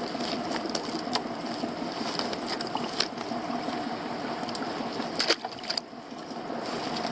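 A boat's outboard engine idling steadily, with a few sharp clicks and knocks over it, the loudest a cluster around five seconds in.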